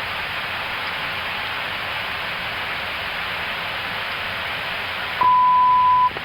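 Steady rushing airflow and air-conditioning noise in the cockpit of an Airbus A321neo climbing at high speed. Near the end a single steady beep sounds for just under a second, and the background noise cuts out beneath it.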